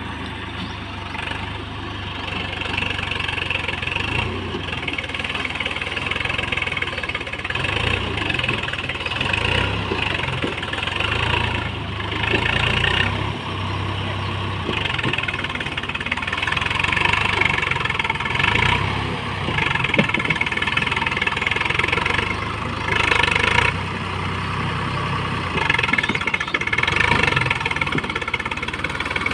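Swaraj 855 FE tractor's diesel engine running continuously, its note rising and falling every few seconds.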